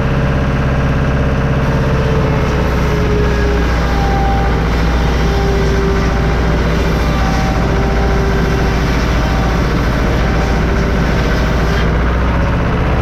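Homemade sawmill running: a steady engine with a higher whine that drops in pitch about two seconds in and then wavers.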